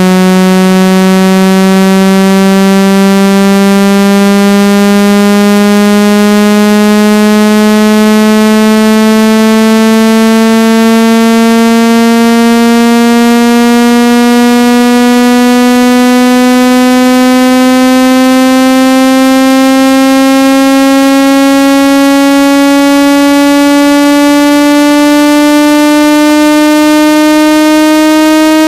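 Synthesized speaker water-ejection tone: a loud, buzzy tone rich in overtones that glides slowly and steadily upward in pitch. It is meant to vibrate water out of a wet phone speaker or earpiece.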